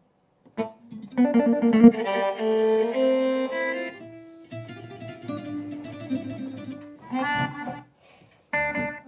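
Korg Pa600 arranger keyboard playing a string of short demo phrases of different instrument sounds, accordion-like and plucked-string-like, each starting and stopping abruptly with short gaps between them.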